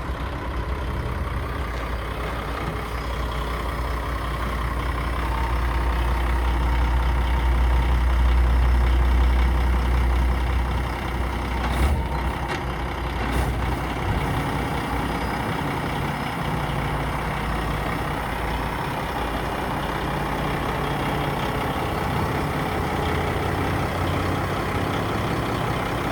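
Heavy truck's Paccar MX turbo diesel engine running, growing louder for a few seconds about a quarter of the way in, then easing back. Two short sharp sounds come about halfway through.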